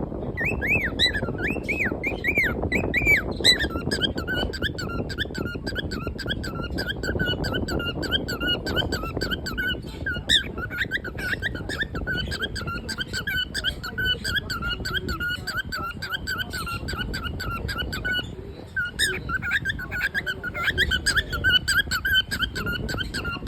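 Pet cockatiel chattering: a long, rapid run of short squeaky chirps, starting with a few larger arched whistles, with a brief break about three-quarters of the way through before it resumes. A steady low background noise runs underneath.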